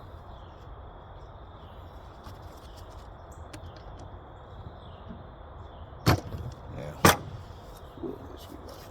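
Two sharp knocks about a second apart, over faint steady background noise.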